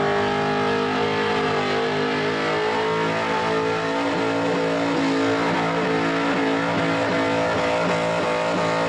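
Supercharged V8 of a Holden VN SS Commodore held at high, nearly steady revs while its rear tyres spin in a smoky burnout.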